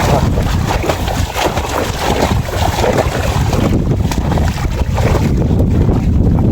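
Wind buffeting the microphone: a heavy, continuous low rumble over an irregular crackle of noise.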